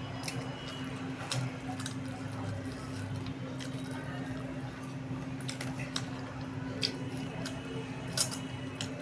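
Wet squishing and smacking of someone eating rice with spicy egg curry, with scattered short, sharp clicks.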